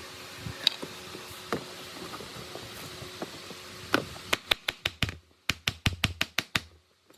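A steady hiss, then about a dozen quick sharp taps, roughly five a second, starting about four seconds in.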